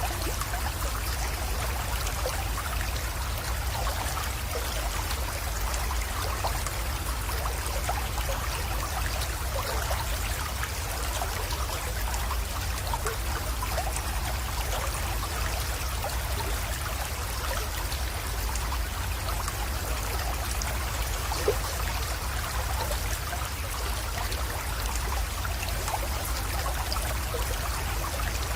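Small creek trickling and splashing steadily over stones, a constant patter of little splashes, with a steady low rumble underneath.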